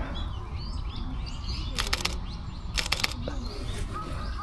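Two quick bursts of camera shutter clicks, about a second apart, from a Fujifilm X-H1 shooting continuously. Small birds chirp faintly in the background.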